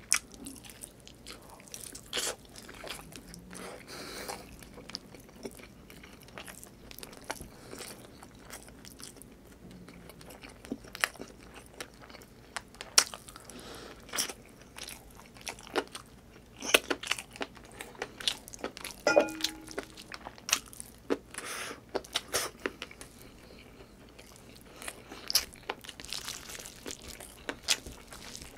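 A person chewing chicken adobo and rice eaten by hand, with many sharp, irregular mouth clicks and smacks as the meat is bitten and chewed.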